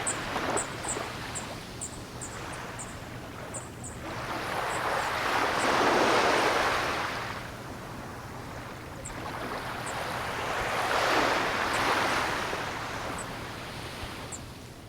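Ocean surf: waves washing in and drawing back, swelling to two loud surges, about six seconds in and again around eleven seconds, then fading. Short high chirps repeat quickly over the first few seconds and now and then after.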